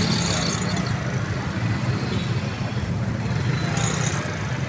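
Motorcycle engines running at idle in stalled traffic, a steady low hum. Two short hissing bursts, one right at the start and one about four seconds in.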